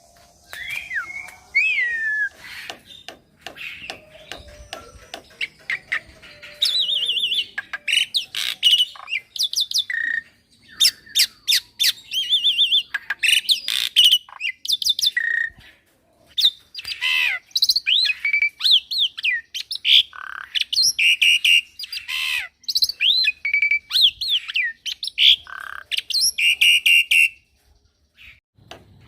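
Young black-winged myna singing a fast, varied song of sharp whistles, gliding notes and harsh squawky calls, packed with mimicked phrases, in bursts with brief gaps and a short pause near the end.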